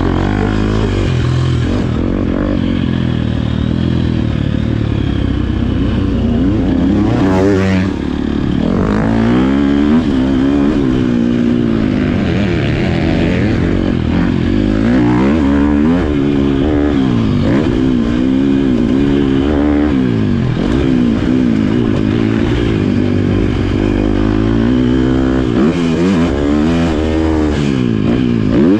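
Motocross bike engine being ridden hard, revving up and dropping off over and over as the throttle is opened and shut.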